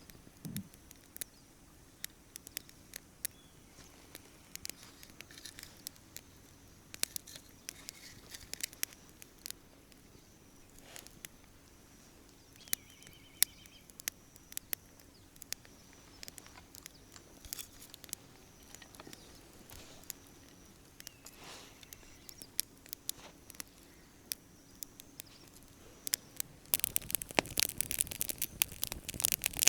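Campfire crackling, with scattered sharp pops and snaps that get denser and louder near the end.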